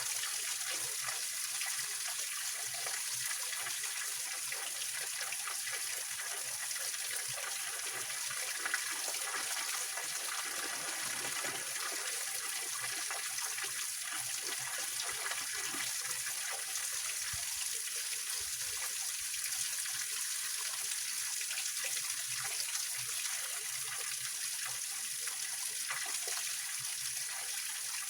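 Small mountain-spring waterfall and stream splashing and trickling over rocks, a steady, even rush of water with most of its sound in the high hiss.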